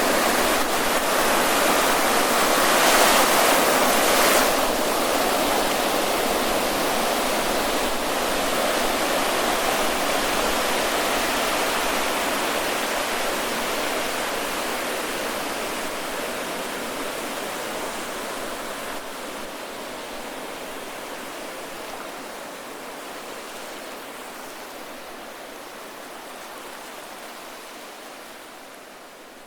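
Ocean waves on a sandy surf beach: a wave breaks with a loud surge about three seconds in, then the wash and surf noise grows gradually quieter.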